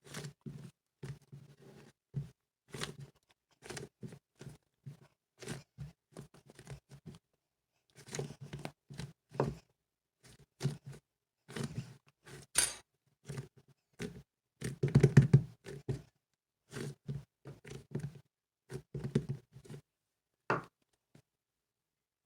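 Cloud slime being squeezed and stretched by hand: an irregular run of short crackles, pops and squishes, with a louder cluster around the middle, stopping shortly before the end.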